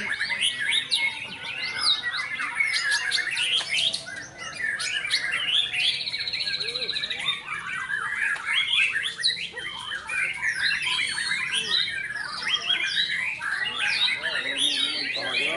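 Many caged songbirds singing at once, a dense tangle of overlapping whistles, chirps and squawks, among them a white-rumped shama (murai batu). About six seconds in, one bird holds a fast, even trill for about a second.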